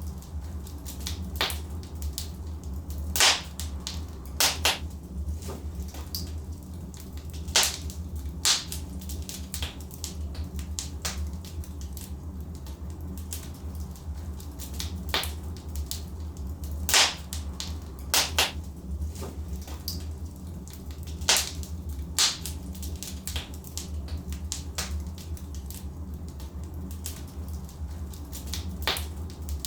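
Logs burning in a fireplace, crackling with irregular sharp pops and snaps, a few of them much louder than the rest, over a steady low rumble.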